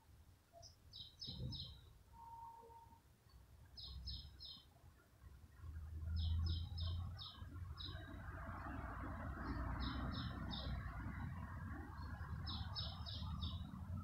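A bird calling in short bursts of three or four quick, high notes, repeated five times a few seconds apart. Underneath is a low rumble of background noise that grows louder about halfway through.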